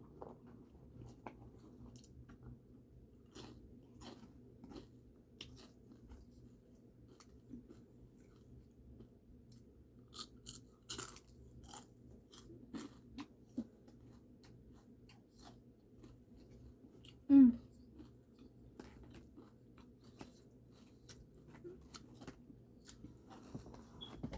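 A person chewing and biting into crispy fried chicken close to the microphone, with small crunches and smacks at irregular intervals. There is one brief louder sound about 17 seconds in.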